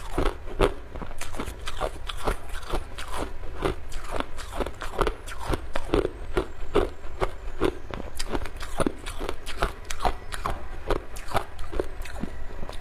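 A person chewing and crunching ice cubes, a steady run of sharp crunches about two or three a second.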